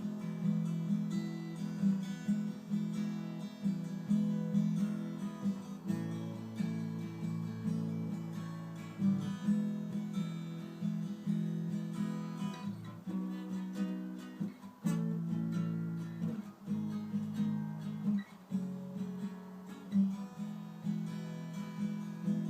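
Acoustic guitar playing an instrumental break, picked and strummed in a steady rhythm with no voice.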